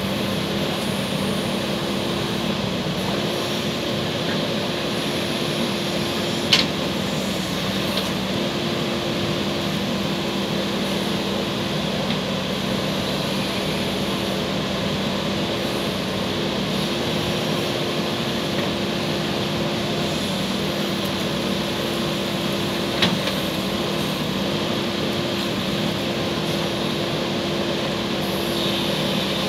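JCB backhoe loader's diesel engine running steadily under work with a constant drone, and two sharp metallic knocks, one about six seconds in and one near the three-quarter mark.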